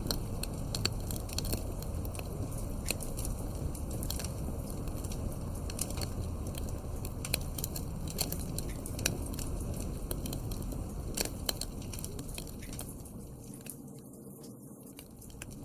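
Wood fire burning in a fireplace: a steady low rush of flames with frequent sharp crackles and pops at irregular intervals. The sound dips briefly near the end, then comes back.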